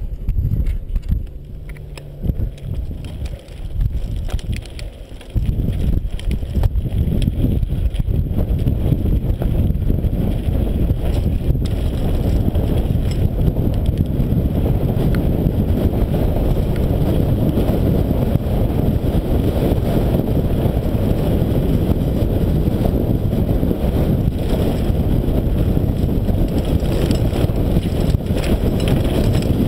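Wind buffeting the microphone of a rider on a moving bike: a loud, steady rumble that sets in about five seconds in after a quieter stretch.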